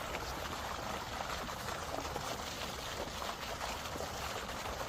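Steady rush of running water, with small splashy ticks through it.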